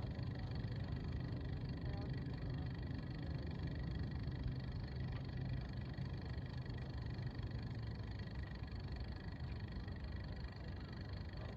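A steady low engine hum that eases off about seven seconds in.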